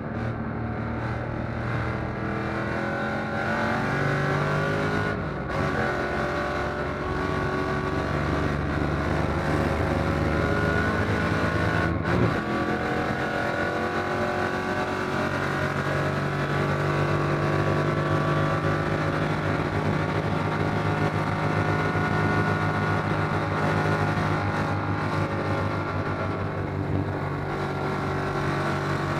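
1957 Corvette's fuel-injected 283 V8 running hard at racing speed, heard from inside the cockpit: the revs climb, break for a gear change about five seconds in and again about twelve seconds in, hold steady at high revs, then drop near the end.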